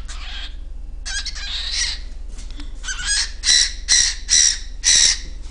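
Cockatiel calling: a short spell of chattering chirps, then a run of loud, shrill screeches repeated about two a second in the second half.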